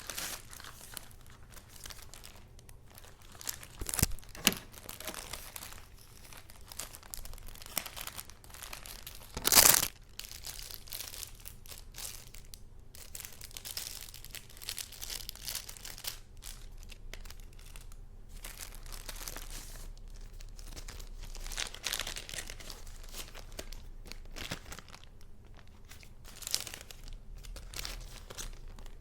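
Paper being handled: a steady rustling and crinkling of sheets and paper goods, with a few sharper, louder crackles. The loudest comes about nine and a half seconds in.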